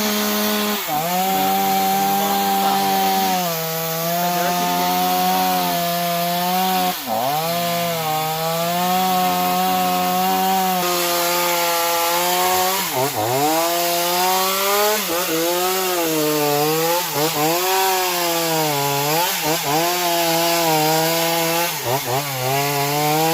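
Chainsaw running hard and cutting into tamarind wood. Its pitch holds for a few seconds at a time, then dips sharply and climbs back several times, more often in the second half.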